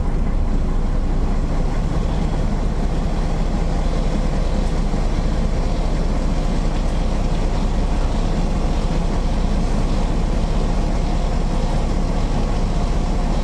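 MAN NL 262 city bus's six-cylinder diesel engine running at a steady, unchanging pitch.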